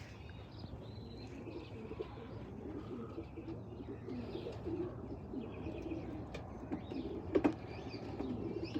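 Racing pigeons cooing continuously in the loft, several calls overlapping, with faint higher chirps. A single sharp knock comes about seven and a half seconds in.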